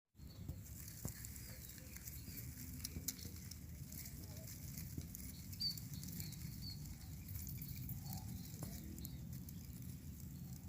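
Outdoor ambience: a steady low rumble of wind or handling noise, with scattered light ticks and a few faint, short high chirps.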